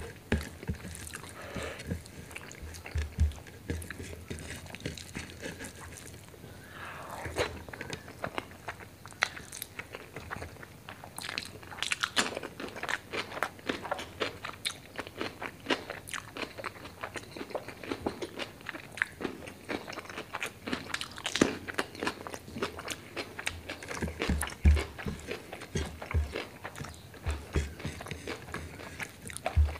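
Close-miked chewing and wet mouth sounds of a person eating rice and curry by hand: steady irregular smacking and crunching, with fingers squishing and gathering rice on the plate.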